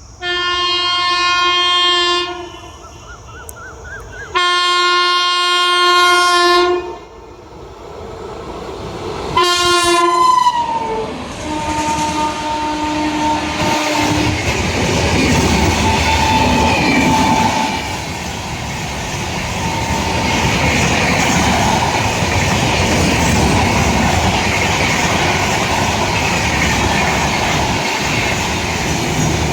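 WAP-7 electric locomotive's horn sounding two long blasts and a shorter third one whose pitch drops as it goes by. The express's coaches then rumble and clatter past over the rails.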